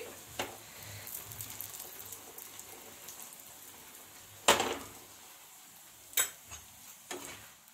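Ghee sizzling faintly under a makki ki roti on a hot iron tawa, while a steel spoon spreads it and clinks against the pan a few times, the loudest clink about four and a half seconds in.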